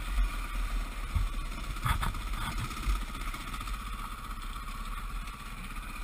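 Dirt bike engine running while riding, with heavy wind rumble on the microphone and a couple of short knocks about one and two seconds in.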